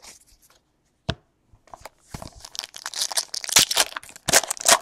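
A trading-card pack wrapper being torn open and crinkled. There is a single click about a second in, then a crackling rustle from about two seconds in that grows louder toward the end.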